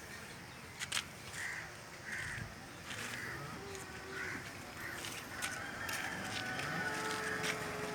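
Short bird calls, about five of them spaced over a few seconds, with a few sharp clicks among them. In the last second or two a steady engine hum comes in.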